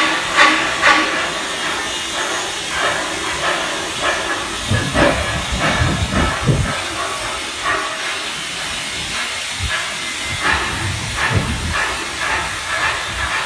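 Steady loud hiss with many irregular knocks, the noise of repair work on a ferry's hull during docking.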